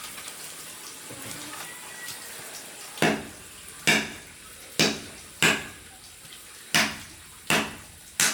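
Cleaver chopping pork on a board: seven sharp chops at uneven intervals, starting about three seconds in.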